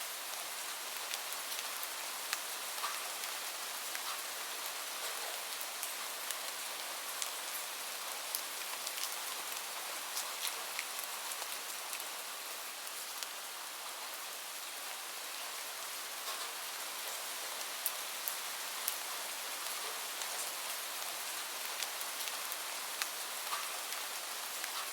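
Steady rain: an even hiss with many sharp ticks of individual drops striking a surface.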